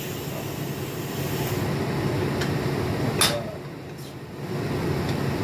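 Steady fan hum with one sharp click about three seconds in.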